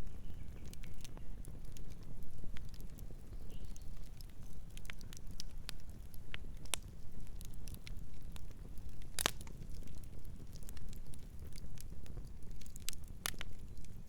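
Campfire burning: a low steady rumble of the flames under scattered sharp crackles and pops of the wood, the loudest pop about nine seconds in and another strong one near the end.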